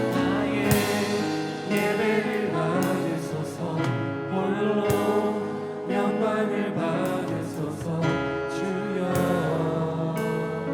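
Contemporary Christian worship song: a band playing with voices singing, and regular drum and cymbal strikes.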